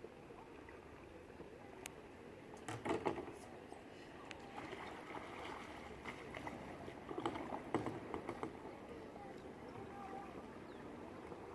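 Knocks and splashes from a kayak on the water, in two short clusters about three seconds and eight seconds in, over a faint steady background.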